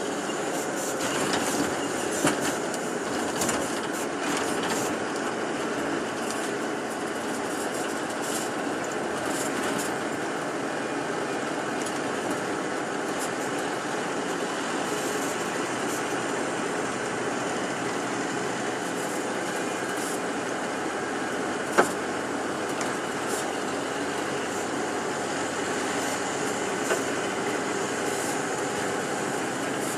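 Tour bus running along a road, heard from inside the cabin: a steady mix of engine and road noise, with small rattles and one sharp click about two-thirds of the way through.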